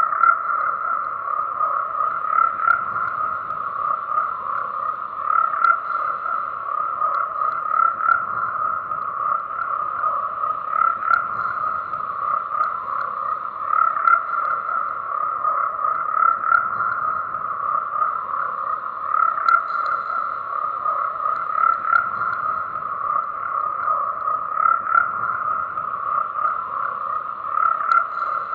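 A dense chorus of many frogs croaking without a break, their calls overlapping into a steady, pulsing drone that swells slightly every couple of seconds.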